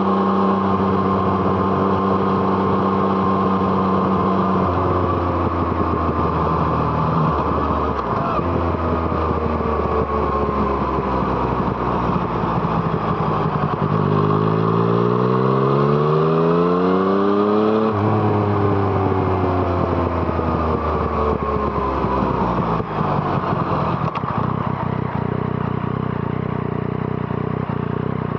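Yamaha MT-09's three-cylinder engine through an Arrow Thunder aftermarket exhaust, ridden on the road: it holds steady revs, steps down in pitch a few times, then accelerates hard with a rising pitch for about four seconds, drops at once on a gear change, and the revs fall away as the throttle is rolled off.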